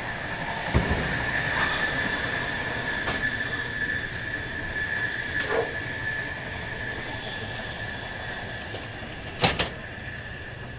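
Passenger train running at speed, heard from inside the carriage: a steady rumble with a steady high whine over it. Sharp knocks sound about a second in and, loudest, near the end, with a few lighter clicks between.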